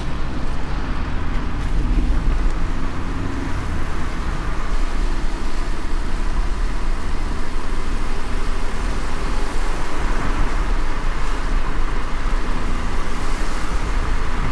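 Car driving in light rain: a steady low road rumble with an even hiss of tyres and rain.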